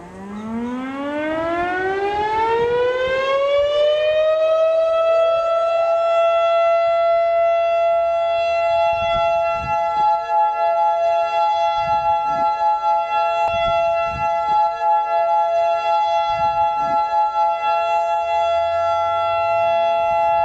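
Outdoor warning siren winding up, its pitch rising over about four seconds to a steady wail. About five seconds in a second, higher tone joins it, making a steady two-tone chord whose loudness wavers through the middle.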